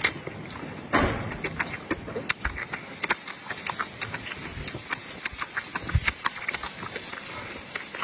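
Close-miked eating sounds: a person chewing, with many small wet clicks and smacks and a louder burst about a second in.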